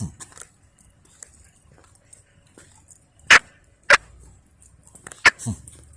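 A dog barking: three short, sharp barks, two close together a little past halfway and one near the end.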